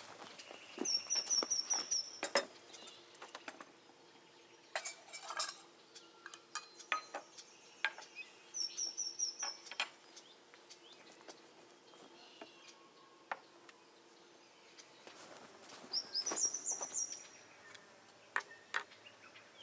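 Clinks and clatter of dishes and utensils being handled, while a bird calls three times, each call a quick run of five or six high notes.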